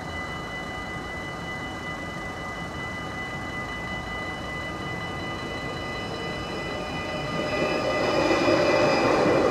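Level-crossing warning bell ringing steadily while an NS Sprinter electric train approaches. From about seven seconds in the train's running noise swells, loudest near the end as it passes over the crossing.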